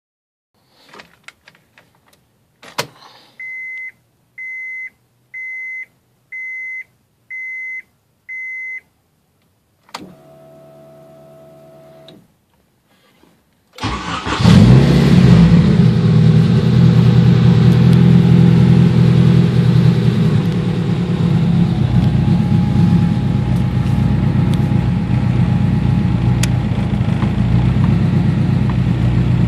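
1992 Honda Civic hatchback: a few clicks, a dashboard chime beeping six times about once a second, a click and a short steady hum as the ignition comes on. About halfway through, the engine cranks briefly, catches and settles into a steady idle.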